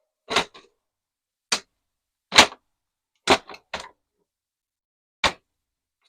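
A series of about seven sharp, irregular knocks and clacks of hard parts, as a pewter-casting mold is taken apart to free the freshly cast plaque.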